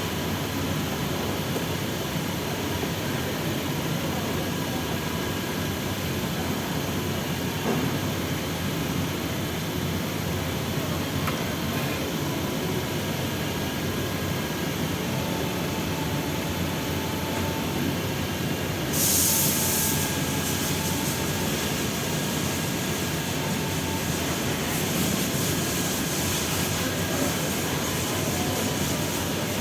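A steady mechanical rumble and hiss, with a short, louder hiss about 19 seconds in.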